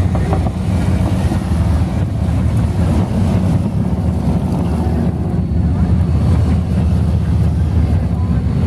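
Motorcycles riding past in a steady convoy, a dense low engine rumble with some wind noise on the microphone.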